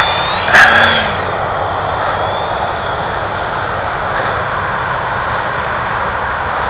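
Electric motor and propeller of a ParkZone P-51 Mustang RC plane in flight just after takeoff, heard as a steady, even rushing noise. There is a short loud burst about half a second in.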